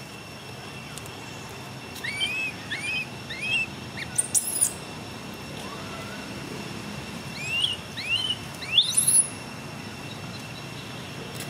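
Birds chirping: three short rising-and-falling chirps about two seconds in, and another run of chirps later on, the last one sweeping much higher. A faint steady high tone sits underneath.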